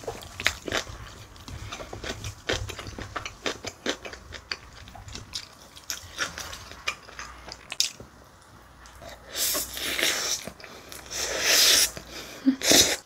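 Close-miked mukbang eating sounds: bibimbap being chewed and bitten, with wooden chopsticks scraping and clicking in a ceramic bowl, a run of short crisp clicks. Near the end come two longer hissing swells.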